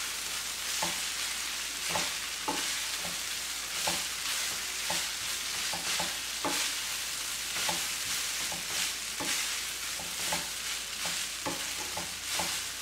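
Fried rice with vegetables and paneer sizzling in a wok on a high flame while a wooden spatula stirs and tosses it. The spatula knocks and scrapes against the wok about twice a second over the steady sizzle.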